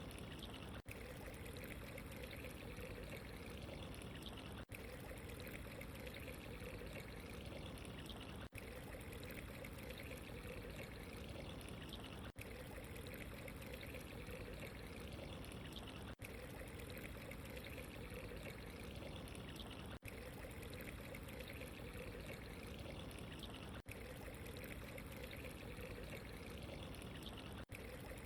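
Steady running water, a continuous trickling pour, faint and even. It cuts out for an instant about every four seconds.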